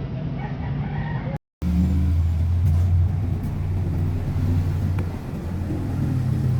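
A steady low engine rumble that cuts in after a brief dropout about a second and a half in.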